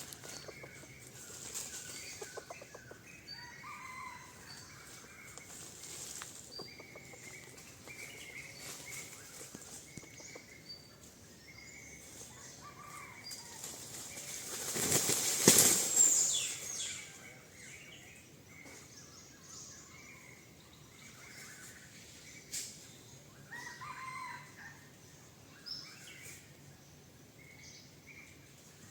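Junglefowl beating its wings in a loud flurry of about two seconds, about halfway through. Short, faint bird calls sound on and off around it.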